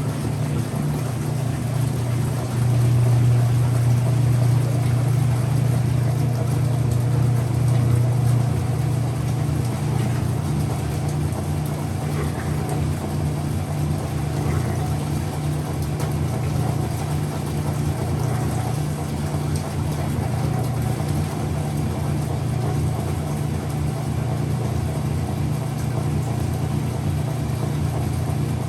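Early-2000s Whirlpool direct drive washer running: a steady low motor hum, somewhat louder for several seconds near the start.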